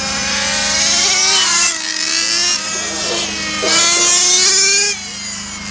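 Radio-controlled model motorcycles racing, their motors whining and rising and falling in pitch as they accelerate and slow, loudest for about a second just before the end, over a steady low hum.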